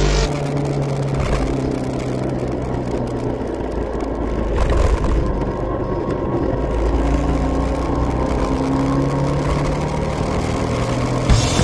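Ducati Scrambler 803's air-cooled L-twin engine running at road speed, with a low rumble of wind underneath. The engine pitch shifts up and down a few times with the throttle.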